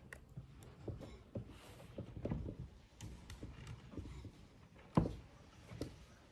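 Irregular light knocks and clicks of metal fan parts being handled and fitted, with one louder knock about five seconds in.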